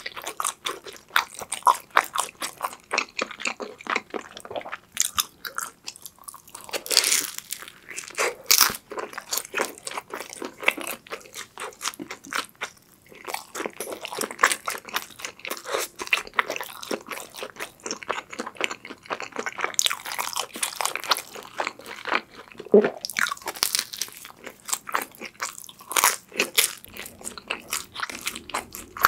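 Close-miked mouth sounds of chewing pepperoni deep-dish pizza: steady wet chewing with crisp crunches as the baked crust is bitten, a few bites louder than the rest.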